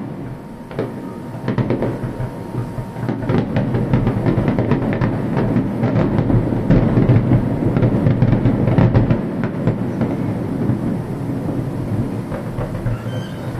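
A fireworks barrage: many shells bursting in quick succession, with rapid bangs and crackle over a continuous low rumble. It builds from about a second in and is loudest in the middle.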